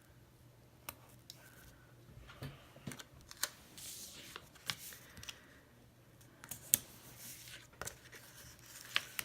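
Hands peeling and placing paper planner stickers: rustling of paper and sticker backing with scattered sharp clicks and taps, the sharpest about two-thirds of the way through.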